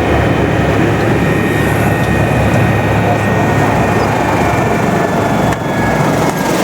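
Kawasaki BK 117 B-2 helicopter running steadily: a loud, constant rotor and engine noise with a low rumble and a thin, steady high turbine whine.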